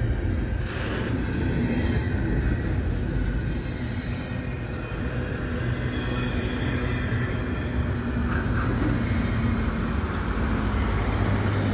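Double-stack freight train's container well cars rolling past at close range: a steady rumble of steel wheels on rail.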